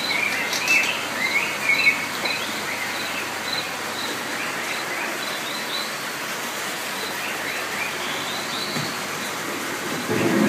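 Rainforest-style ambience: a steady hiss of falling water with bird chirps over it, busiest in the first two seconds and again near the end, and a faint high pip repeating about twice a second.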